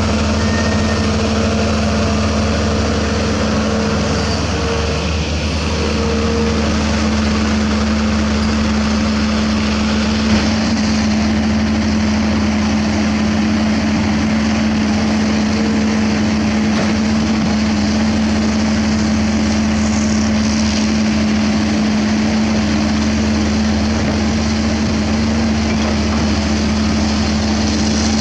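Diesel engine of a heavy crawler earthmover running steadily under load, with a steady low drone throughout. There is one short knock about ten seconds in.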